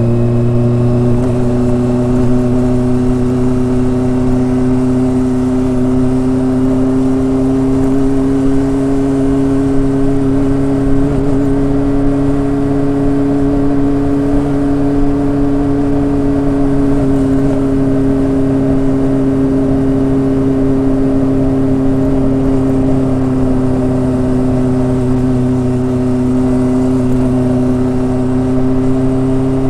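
Kawasaki ZRX motorcycle's inline-four engine and exhaust running steadily under way. The pitch climbs gently to about the middle, eases off a little, then rises again near the end.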